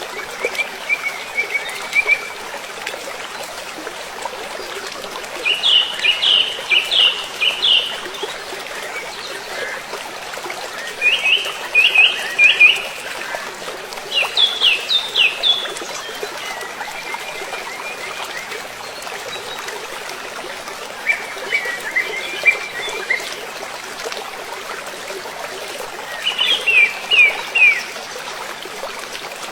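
A songbird singing short phrases of quick, falling notes, repeated every few seconds, over a steady background hiss.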